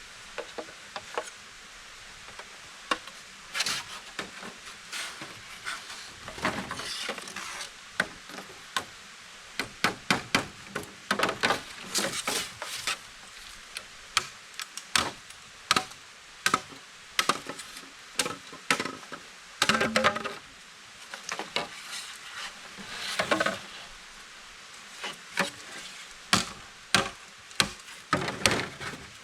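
Bamboo being worked with hand tools: irregular sharp wooden knocks and clacks, some in quick clusters, over a steady background hiss.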